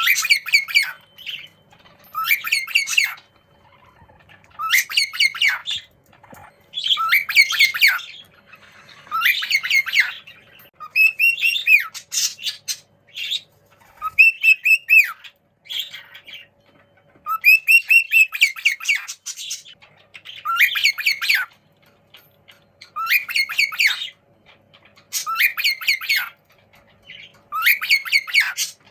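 Juvenile cockatiel calls: bouts of quick, repeated squawking chirps, each lasting about a second and coming roughly every two seconds.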